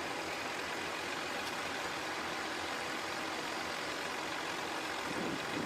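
Heavy vehicle's engine running steadily, with no change in pace, swelling slightly about five seconds in.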